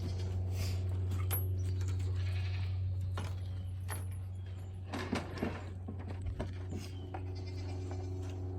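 Honeybees buzzing steadily around an opened hive, with scattered clicks and clinks of hive equipment being handled, loudest about five seconds in.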